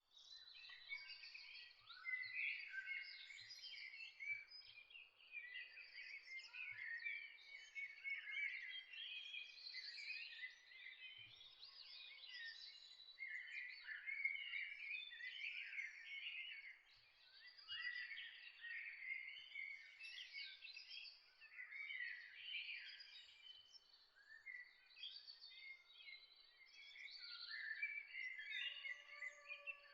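Dawn chorus of many small songbirds chirping and trilling at once, a dense, unbroken tangle of high twittering calls.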